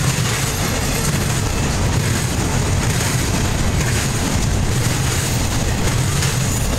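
Empty double-stack intermodal well cars rolling past on the rails: a loud, steady, deep wheel-on-rail noise with no breaks.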